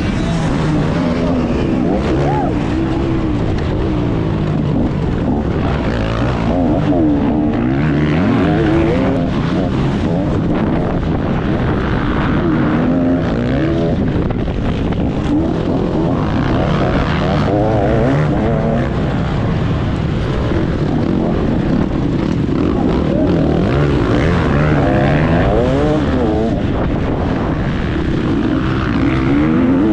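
Motocross bike engine at high revs, its pitch rising and falling repeatedly as the throttle opens and closes through the gears while riding a track.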